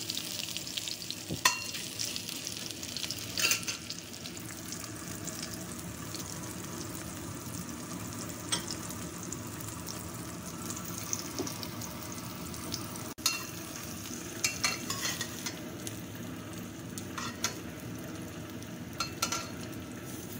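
Strips of vegetarian mock chicken sizzling steadily as they fry in hot oil in a wok until golden, with a metal utensil clicking and scraping against the pan now and then, in small clusters in the second half.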